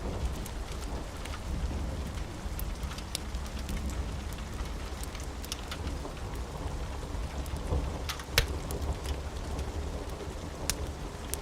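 Steady rain with a continuous low rumble of thunder underneath. Scattered sharp ticks run through it, one louder snap about eight seconds in.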